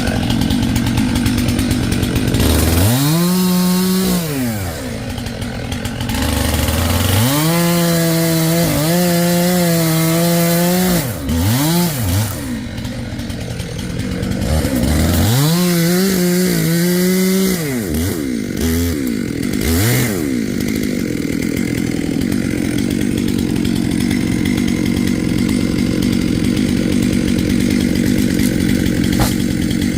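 Two-stroke chainsaw revved to full throttle three times, each held for a few seconds, with short throttle blips in between, over a steady engine drone. From about twenty seconds in only the steady drone remains.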